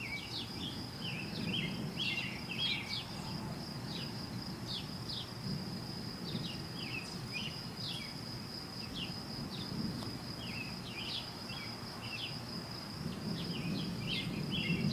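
A distant, constant low roar like continuous thunder, swelling and fading, of unknown origin and seeming to come from the whole sky. Over it, birds chirp often and an insect trills steadily on one high note.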